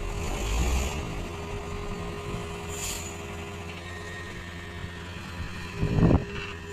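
A heavy diesel engine of the recovery machinery runs steadily. There is a short hiss about three seconds in, and a loud, low, heavy thump about six seconds in.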